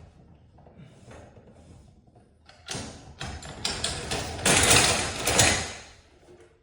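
Mechanical rattling and clattering: a run of knocks and scrapes starting about three seconds in, loudest past the middle, then fading.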